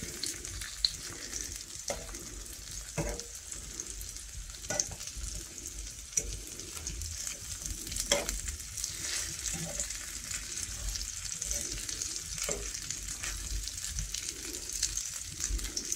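Panko-crumbed chicken nuggets sizzling in shallow oil in a frying pan, with scattered light clicks and scrapes of metal tongs against the pan as the pieces are turned.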